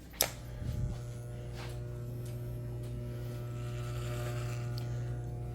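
Electric hair clippers switched on with a click just after the start, then running with a steady buzz.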